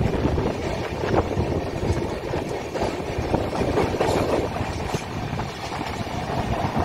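Passenger train running on the track: a steady low rumble.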